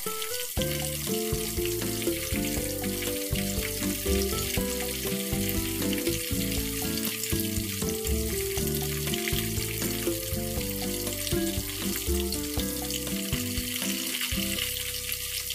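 Food frying in a pan with a steady sizzle, under background music.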